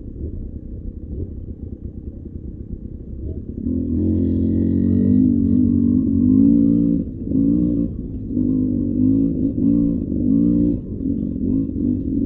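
Beta 300 RR two-stroke single-cylinder dirt bike engine running at a low rumble, then about four seconds in it gets much louder and revs up and down repeatedly with the throttle.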